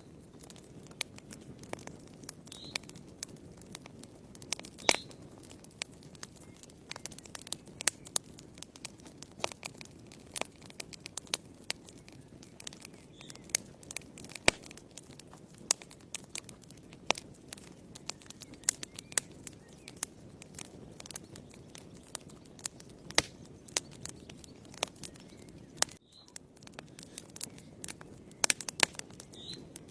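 Wood fire burning in a fireplace: irregular sharp crackles and pops over a soft, steady low rush of flame.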